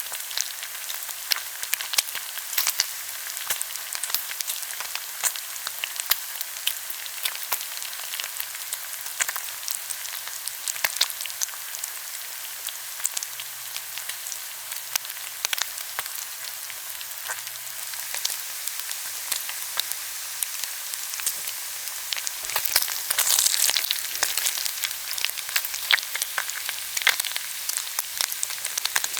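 Pork belly sizzling on a hot grill, a steady high hiss with many small pops and crackles of spitting fat. The sizzle grows louder for a second or two a little past the middle.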